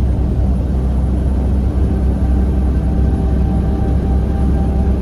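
Semi truck's diesel engine and road noise heard from inside the cab while cruising: a steady, low drone.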